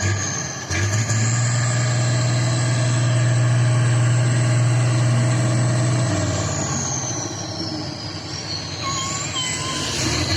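Off-road trial truck's heavy engine working hard, with a strong steady drone that drops off about six seconds in, and a faint high whine that falls and then rises.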